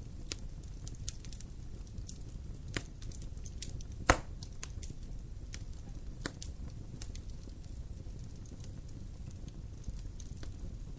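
Wood fire crackling in a fireplace: scattered small pops over a low steady rumble, with one loud, sharp pop about four seconds in.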